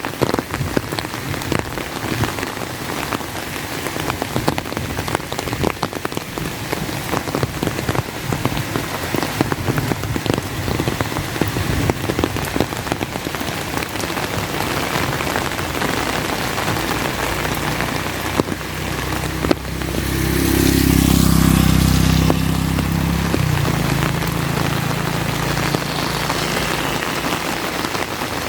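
Steady rain falling on an umbrella, heard as a dense stream of sharp drop clicks. About twenty seconds in, a motor vehicle passes, its engine hum and wet-road hiss swelling and then fading away over several seconds.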